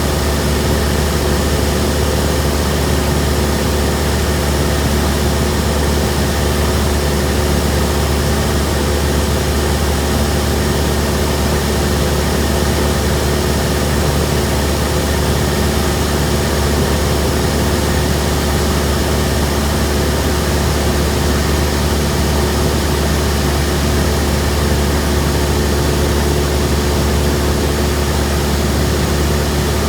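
Cessna 172M's four-cylinder Lycoming engine and propeller, a loud steady drone in level flight with rushing air noise over it, not changing in pitch or level.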